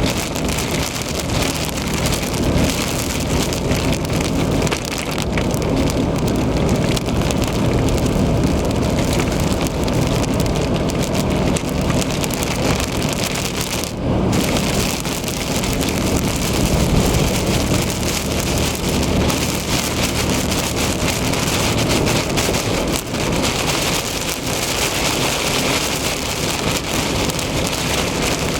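Heavy rain pelting a car driving on the interstate, a dense steady hiss, with a constant low hum of road and engine noise underneath.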